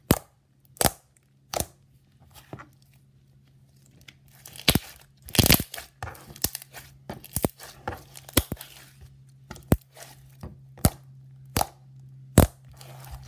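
Black clear-glue slime being squished and stretched by hand, giving off irregular sharp clicks and pops, with a quiet stretch early on and a cluster of pops about five seconds in. A faint steady hum sits underneath.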